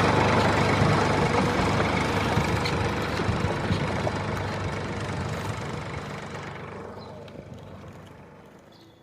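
An engine running steadily, fading out evenly to almost nothing by the end.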